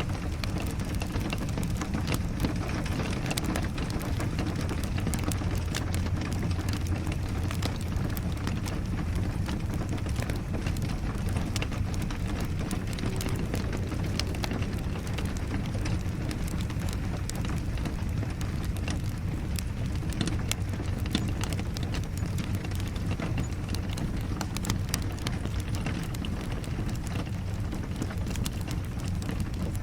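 Steady rain together with a crackling wood fire: an even hiss and low rumble scattered with many small, sharp pops.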